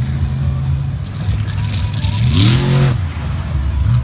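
Monster truck engine running, revving up sharply about two seconds in and dropping back a second later, with a rush of noise at the peak of the rev.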